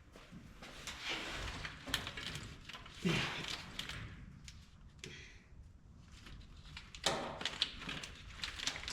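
Wiring harness being handled and fed through a hole: loom and connectors rustling and scraping in irregular bursts, with light clicks and knocks.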